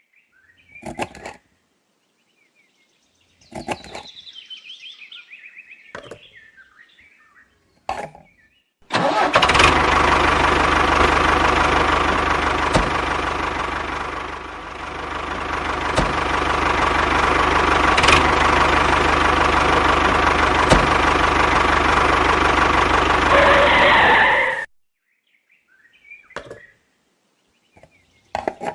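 A small motor running steadily for about fifteen seconds, starting and stopping abruptly, with a brief dip in level about halfway through. Before it, several short, scattered knocks and rattles.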